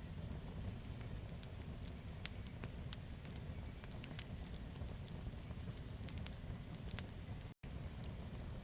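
Campfire burning, with frequent sharp crackles and pops over a low steady rumble. The sound drops out completely for an instant near the end.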